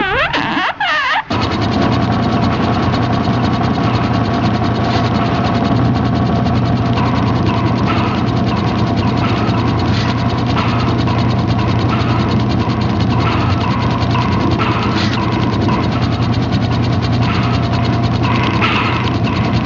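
Steady, rapid mechanical clicking over a constant low hum, a dubbed-in machinery sound effect, starting about a second in after a brief warbling, gliding electronic tone.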